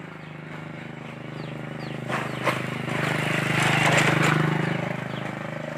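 A motorcycle engine passing by, growing louder to a peak about two-thirds of the way through, then fading.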